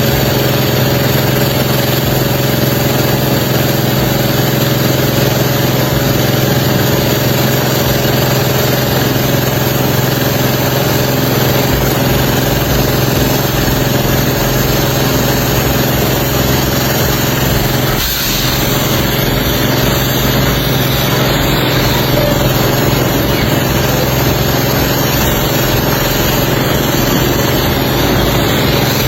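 Pressure washer running steadily, a motor hum under the hiss of a water jet, with a brief break in the spray about 18 seconds in.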